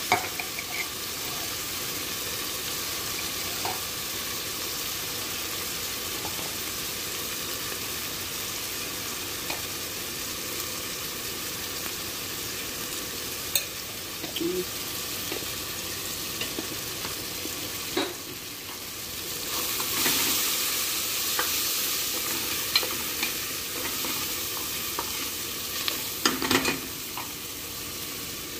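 Chopped onions and tomatoes sizzling in hot oil in an aluminium pot, with a few sharp knocks against the pot from stirring. The sizzle grows louder for a few seconds about two-thirds of the way through.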